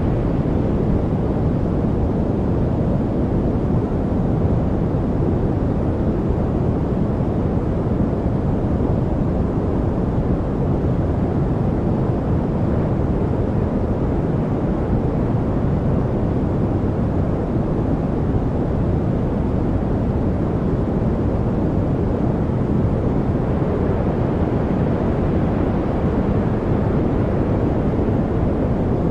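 Steady, unchanging noise, heavier in the low end than the top: a deep, even rush.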